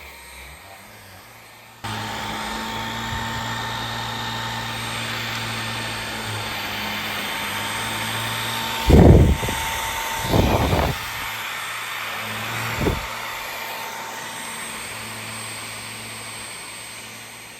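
Vacuum cleaner switched on about two seconds in and running steadily, with three loud low thumps around the middle, then its noise fading near the end.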